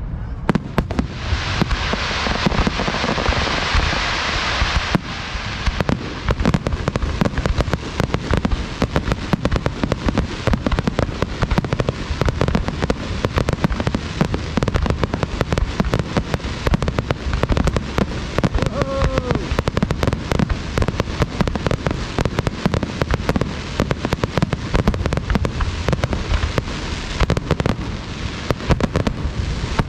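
Fireworks bursting close by in a dense, rapid barrage of bangs and crackles. About a second in, a loud hissing crackle joins for roughly four seconds.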